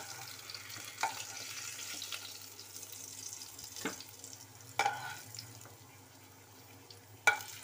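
Potato chunks frying in oil in a karai, a light sizzle that thins out in the second half, with four sharp knocks of a utensil against the pan, the loudest near the end.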